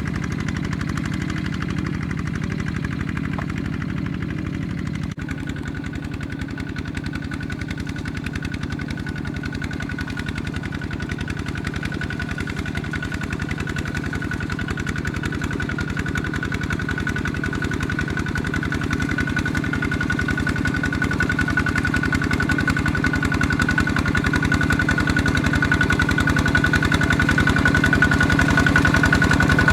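Tractor engine running steadily with a rapid, even beat. A thin, steady high whine joins about five seconds in, and the sound grows slowly louder toward the end.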